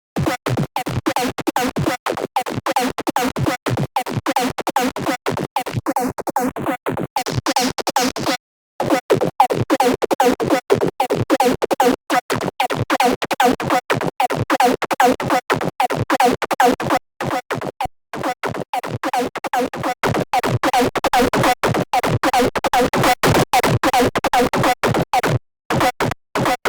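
Serum software synthesizer playing a wavetable patch as a rapid, stuttering stream of short, choppy electronic notes with a scratch-like character. It cuts off abruptly for brief moments several times.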